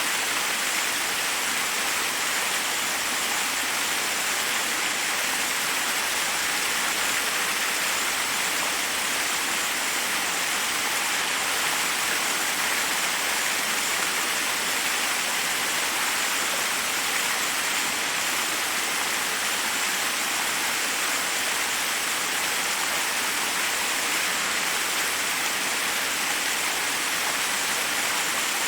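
Forest waterfall rushing steadily, an even, unbroken hiss of falling water.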